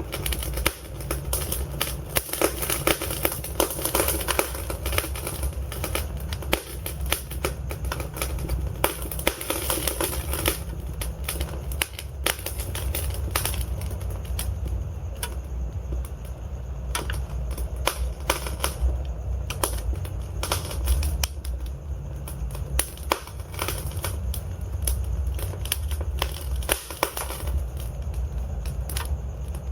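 Wood fire in a fireplace crackling, with many sharp pops and snaps at irregular intervals over a steady low rumble of the burning logs.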